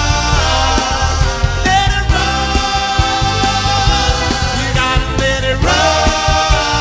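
A band playing upbeat soul music, with long held notes over a steady bass line and drums.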